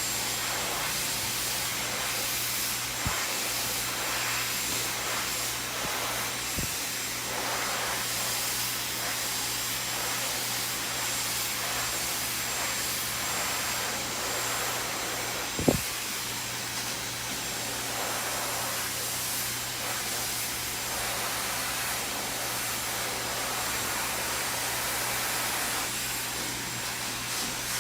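Handheld hair dryer blowing steadily: a constant rush of air over a low motor hum. A sharp knock about sixteen seconds in, with fainter ones around three and seven seconds.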